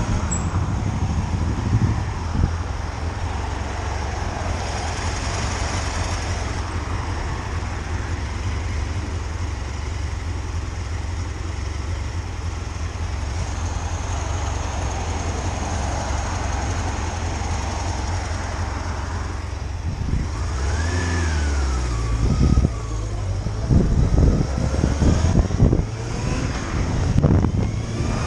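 Motorcycle riding along the road: a steady engine drone under wind rush. About two-thirds of the way through the engine note rises and falls, and toward the end the wind comes in uneven gusts.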